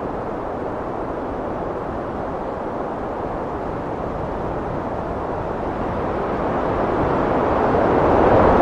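Heavy wind blowing in a steady rushing gust, swelling louder in the last few seconds.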